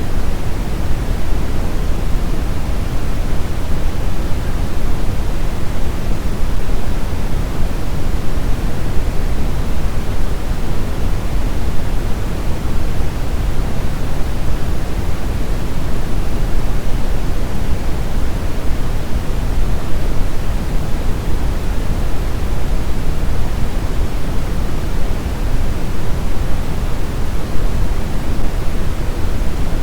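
Brown noise: a steady, unchanging hiss weighted heavily toward the bass, like a deep rumbling rush.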